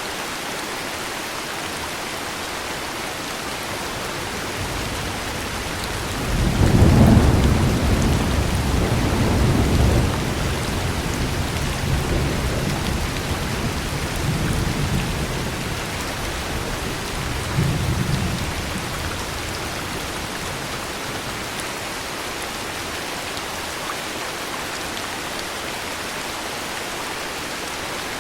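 Steady heavy rain with a long roll of thunder: the rumble builds about five seconds in, peaks soon after, swells once more near the middle and fades away, leaving the rain.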